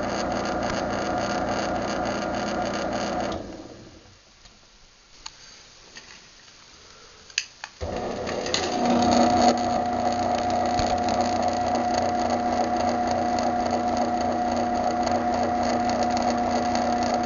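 Craftsman belt-drive garage door opener motor running with a steady hum. It stops a few seconds in, and a couple of sharp clicks follow. About 8 seconds in it starts up again and runs steadily.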